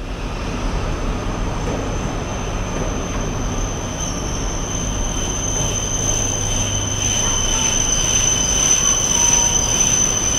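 JR East E5 series Shinkansen pulling slowly into a station platform: a steady rumble of the train with a high, steady wheel squeal at two pitches that grows stronger toward the end.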